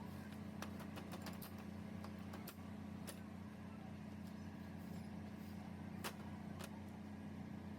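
A steady low machine hum runs throughout, with a few sharp metallic clicks or taps scattered through it, the loudest about six seconds in.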